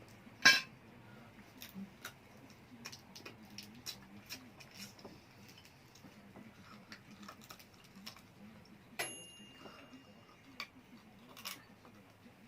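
Scattered clicks and clinks of tableware during a meal, with a sharp knock about half a second in. About nine seconds in, a piece of tableware is struck and rings briefly.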